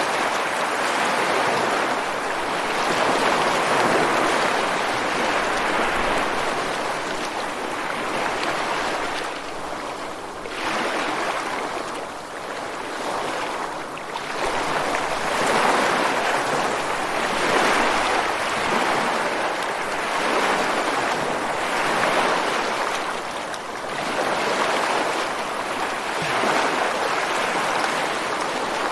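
Ocean surf: waves breaking and washing ashore onto the beach and rocks in a continuous rushing hiss that swells and eases every few seconds.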